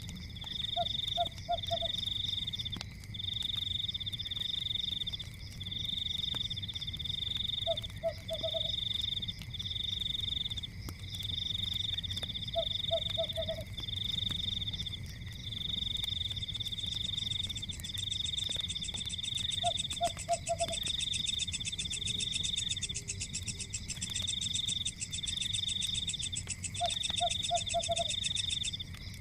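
Night forest ambience: a loud chorus of high trills coming in pulses of about a second, with a second, higher trill joining about two-thirds of the way in. A short call of three or four low notes repeats about every seven seconds, over a low rumble and faint crackling of a wood fire.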